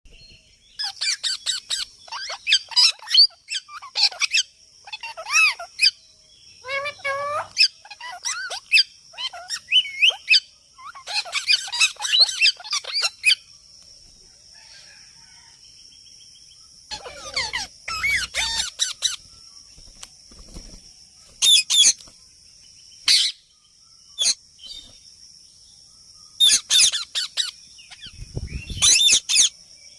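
A parrot calling and chattering in bursts of quick squawks, chirps and gliding whistles, with two quiet stretches, one about halfway through and a shorter one later.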